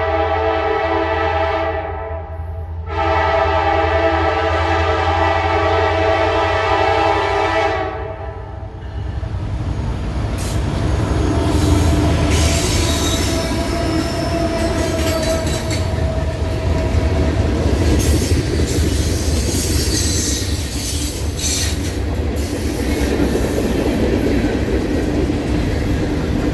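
Diesel freight locomotive's air horn sounding two long blasts, a short break after the first, about two seconds in. Then the locomotive and freight cars roll past with steady wheel and rail noise.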